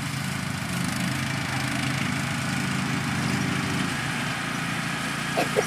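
Small tractor engine running steadily, its low hum shifting slightly about four seconds in.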